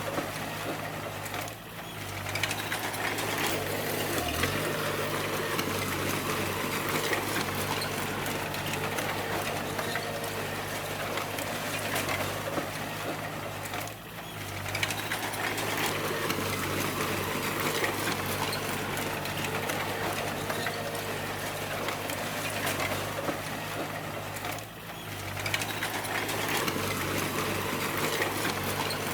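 Bulldozer's diesel engine running steadily under the clatter of its steel tracks. The sound dips briefly three times, about a second and a half in, about halfway through and near the end.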